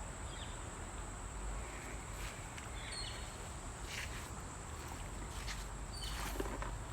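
Outdoor creek-side ambience: a steady low rumble under a constant thin high-pitched whine, with a few faint scattered clicks and two brief high chirps.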